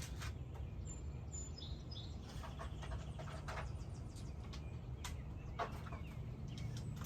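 Birds chirping and calling in short, scattered notes over a steady low rumble, with a few light clicks mixed in.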